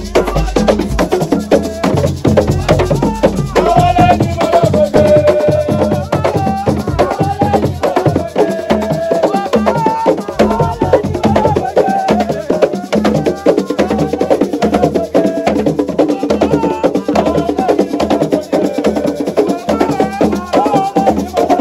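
Assiko music: busy, fast hand percussion with sharp clacking strokes, with a voice singing a wavering melody over it.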